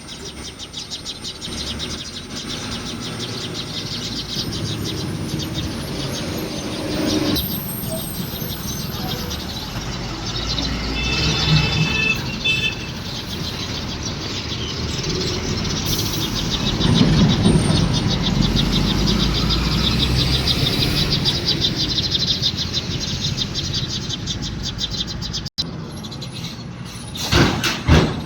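Heavily loaded Ashok Leyland truck's diesel engine running at crawling speed as the truck eases over a speed breaker, getting louder as it comes closest about two-thirds of the way through and then fading, with birds chirping.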